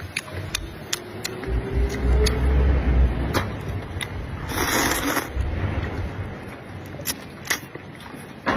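Close-miked eating sounds: wet mouth clicks from chewing throughout, with a low rumble from about a second and a half to three seconds in, and a short noisy burst about halfway through.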